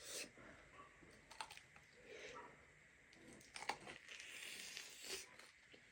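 Faint close-up eating sounds: scattered small clicks and soft crunches of chewing and biting, a little louder for a moment partway through.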